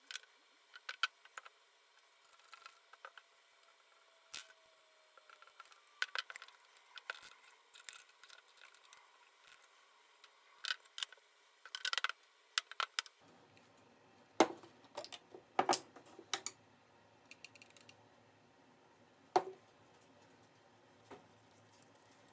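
Irregular clicks and knocks of small hard objects being handled, with a few sharper knocks in the second half.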